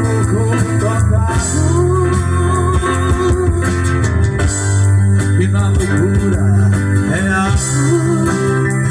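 Live rock band playing: electric guitar melody over bass guitar, drums and keyboard.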